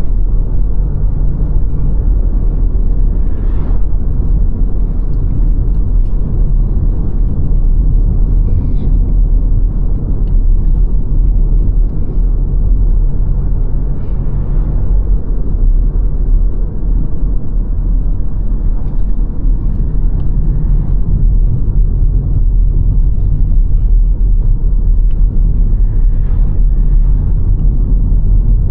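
Car driving along at a steady pace: a constant low rumble of road and engine noise.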